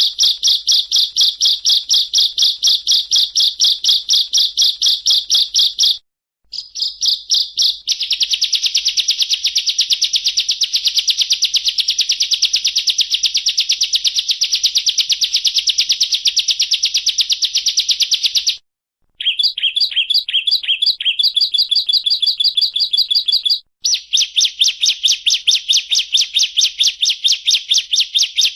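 Bar-winged prinia (ciblek) singing a fast, continuous trill of rapidly repeated high notes, the rattling 'ngebren' song style. It stops abruptly about six, eighteen and twenty-four seconds in, and the note pattern changes briefly after the second break.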